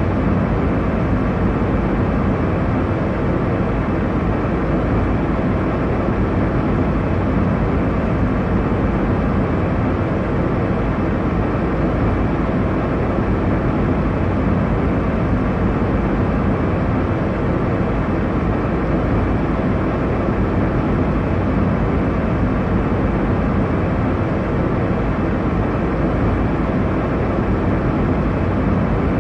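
Airliner cabin noise in flight: a steady, deep rushing drone of engines and airflow, heard from inside the cabin.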